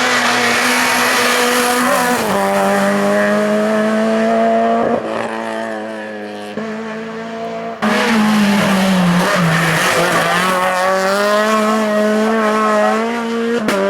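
Racing car engine run hard up a hill climb course, its pitch climbing as it accelerates and dropping at gear changes. The engine note changes suddenly about eight seconds in.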